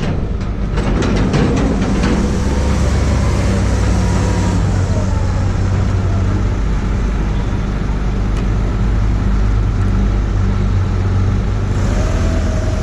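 A motor vehicle running at steady speed: a low engine drone with road noise.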